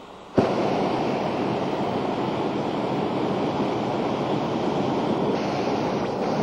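Hot air balloon's propane burner firing, cutting in abruptly about half a second in and then running as a steady, loud roar.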